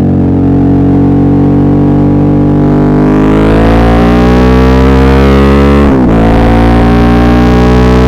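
Suzuki V-Strom 650's V-twin engine accelerating. The revs hold steady, then climb from about three seconds in, drop sharply at a gear change about six seconds in, and climb again.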